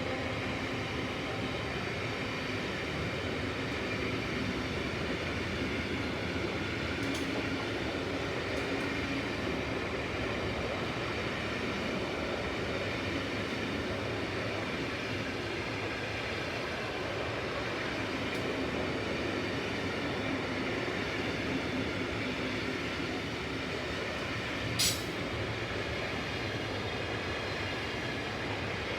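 Intermodal container freight train rolling past steadily, its wagons' wheels making a continuous rumble and hiss on the rails, with one sharp clank near the end.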